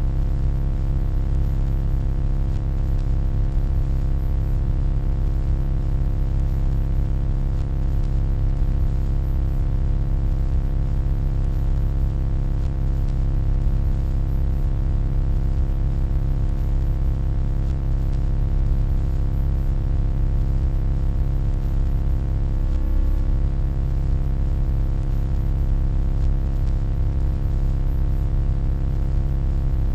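Steady electronic hum: a deep, unchanging drone with many faint steady overtones above it.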